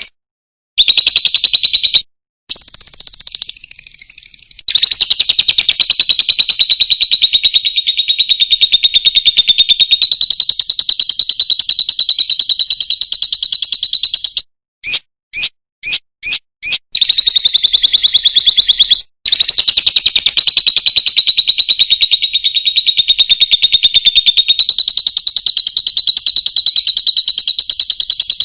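A high, very rapid trill of calls held on about one pitch for several seconds at a time, broken by short pauses and a run of quick separate chirps midway: a recorded animal call used as song-training material for a long-tailed shrike.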